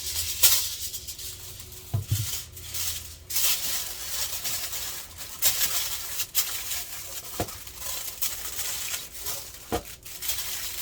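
Raw chicken wings being seasoned in a pan: shaking and rustling, with a few light knocks.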